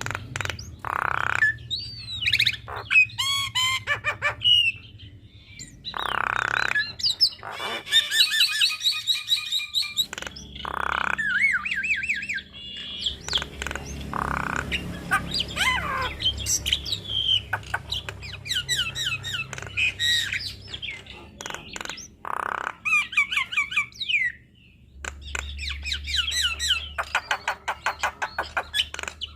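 Javan myna (jalak kebo) singing a varied song: harsh squawks mixed with whistled glides and chirps, then a long, fast rattle of rapid notes near the end.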